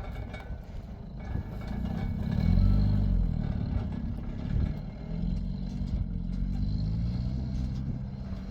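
A motor vehicle's engine running, its pitch rising and falling as it revs and eases off, loudest about two and a half seconds in.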